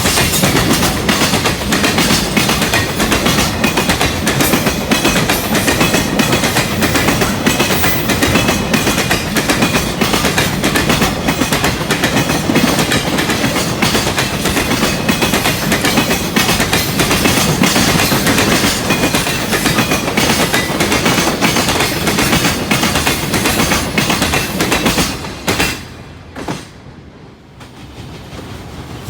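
Freight train wagons rolling past close by, steel wheels clattering rapidly over the rail joints. The noise drops away briefly near the end, then builds again.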